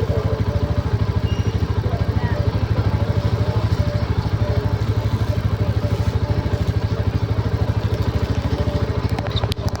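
An engine idling steadily with a fast, even pulsing beat of about a dozen beats a second.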